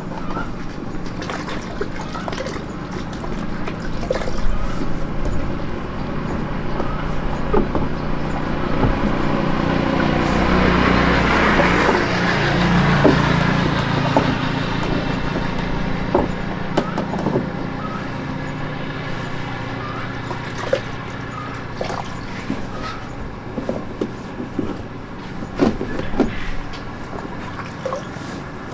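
An engine running steadily, growing louder with a rush of noise toward the middle and then fading away, with scattered clicks and knocks throughout.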